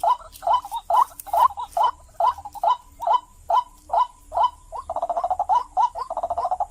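White-breasted waterhen calling: a run of short, harsh repeated notes, about three a second, that turns into a faster, denser chatter about five seconds in.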